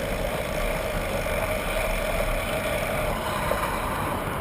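Road traffic going by: a steady rumble of car engines and tyres.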